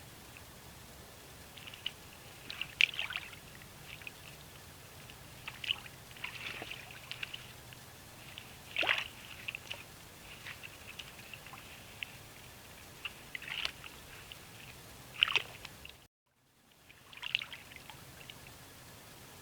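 Water sloshing and splashing in short, scattered bursts, several dropping in pitch, over a steady low hum, with the sound cutting out briefly about sixteen seconds in.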